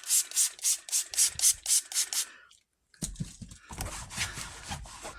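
Microfiber cloth rubbed briskly back and forth over a car's surface, working in a scratch-repair spray, at about three strokes a second. It cuts to silence about two and a half seconds in, then the rubbing starts again, less even and with a low rumble.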